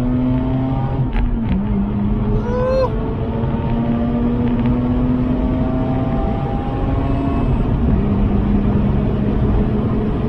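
Mazda RX-8's twin-rotor rotary engine pulling hard under acceleration, heard from inside the cabin. Its pitch climbs slowly through each gear and drops at upshifts about a second in and again near eight seconds.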